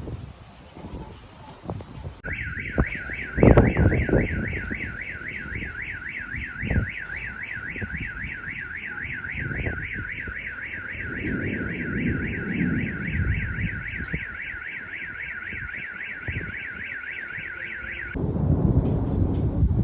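Electronic alarm siren warbling rapidly up and down at a steady rate, about four cycles a second, starting about two seconds in and cutting off suddenly near the end, over wind noise on the microphone with a loud low rumble about three and a half seconds in.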